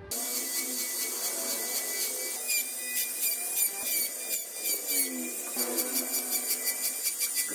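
Small high-speed power tool running on wood, its whine sagging and recovering in pitch as it is pressed into the work, with regular light ticks in the second half.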